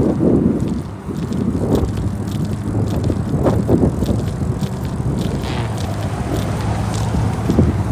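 Wind buffeting the microphone of a moving bicycle, a steady low rumble with the faint rattle and ticking of the bike over the road, dipping briefly about a second in.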